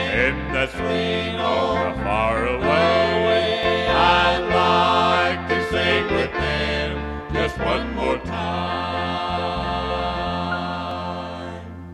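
Gospel song's closing bars: voices singing in harmony over a band, ending on a long held final chord that fades out near the end.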